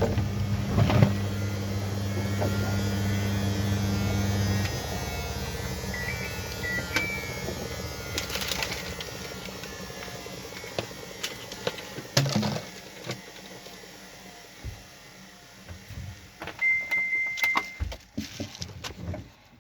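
Washing machine humming steadily, then cutting off about five seconds in and winding down. After that come scattered clicks and knocks, a few short electronic beeps, and one longer beep near the end.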